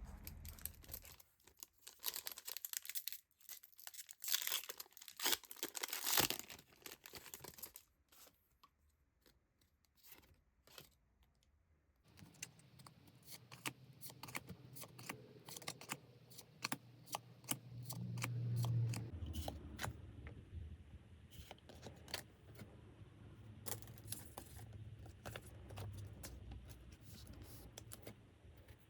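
Pokémon card Elite Trainer Box packaging torn and crinkled by hand in bursts for the first several seconds. After a short quiet spell, a long run of small clicks and taps follows as the contents are handled.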